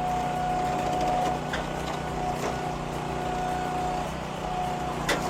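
Small engine on a hydraulic log splitter running steadily, with a thin steady whine that breaks off now and then. A sharp crack comes near the end.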